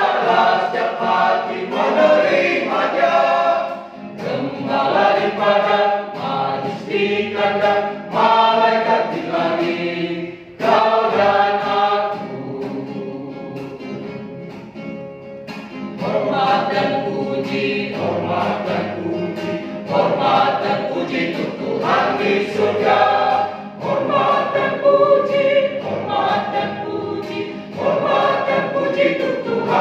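Mixed choir singing a gospel hymn in Indonesian, with sustained sung phrases; the singing drops to a softer passage for a few seconds around the middle, then swells again.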